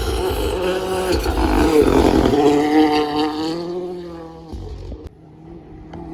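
Rally car engine revving hard as the car passes, pitch rising and stepping with gear changes. It is loudest about two seconds in, then fades and drops away suddenly about five seconds in.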